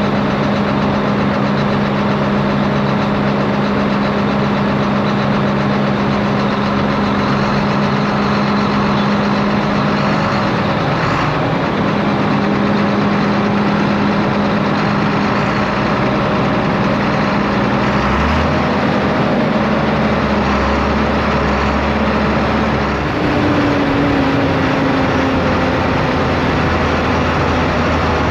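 John Deere 4960 tractor's six-cylinder diesel engine running steadily while driving on the road, its tone shifting a few times and sliding down in pitch near the end.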